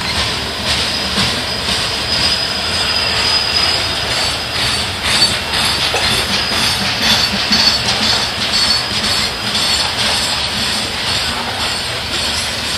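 Freight train's coal hopper cars rolling steadily past: a continuous rumble and clatter of steel wheels on rail, with a thin, high-pitched wheel squeal over it.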